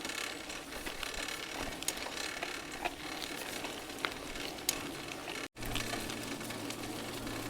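Bicycle riding noise: tyres rolling over a rough track with a steady hiss, scattered light clicks and ticks. About five and a half seconds in the sound drops out for an instant, and a steady low hum joins afterwards.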